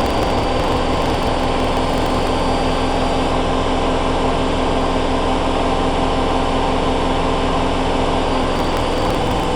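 Hoover Dynamic Next washing machine spinning at high speed in its final spin, a steady motor whine over the rumble of the spinning drum.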